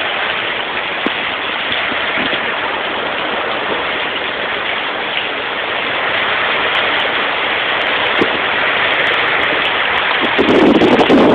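Heavy rain pouring onto concrete and bare ground: a loud, steady hiss of drops splashing. About a second before the end a brief lower rumble on the microphone comes in over it.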